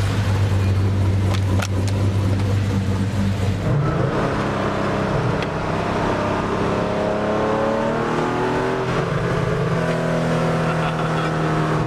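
Sports car engine pulling hard, its pitch steady for about the first four seconds and then climbing again and again as the car accelerates up through the gears.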